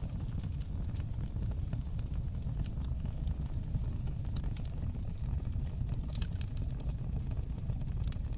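Fire crackling in a fireplace: a steady low rumble of flames with scattered sharp pops and snaps, a small cluster of them about six seconds in.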